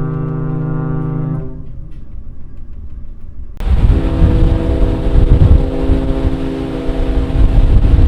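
Ship's horns sounding as two ferries pass each other. A long horn blast cuts off about a second and a half in. After a short lull, wind buffets the microphone and a second horn sounds at a higher pitch.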